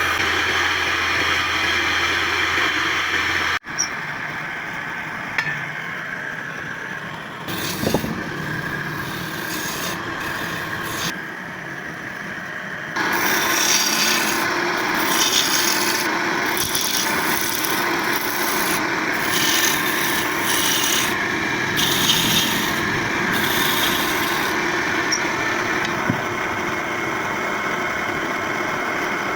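A hand tool working wood in repeated scraping strokes, rasping and sawing against the grain, at roughly one stroke a second in the later part.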